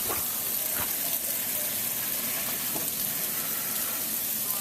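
Sleet falling: a steady, even hiss of ice pellets coming down, with a few faint ticks in it.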